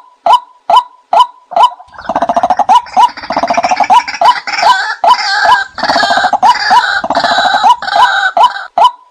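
Birds calling: a short, sharp call repeats evenly about twice a second. From about two seconds in, a louder rapid rattling chatter joins it and stops shortly before the end.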